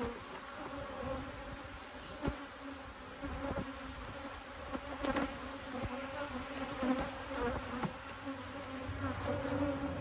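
Many honey bees buzzing around an open hive, a steady hum from a crowded, strong colony. A few light clicks sound over it.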